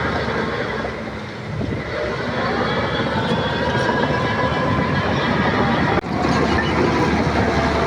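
Shantui crawler bulldozer working: its diesel engine running steadily under a continuous clanking rattle and squeak of steel tracks, dipping briefly about a second in and breaking off for an instant near the end.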